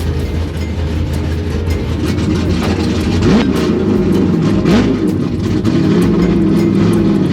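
Drift car's engine running low and steady, then revving up and down repeatedly from about two seconds in.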